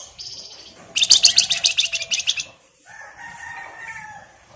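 Flamboyan (wergan Jawa) songbird singing: a short buzzy high note, then about a second in a loud, rapid, high-pitched chattering trill, followed by softer, lower whistled notes.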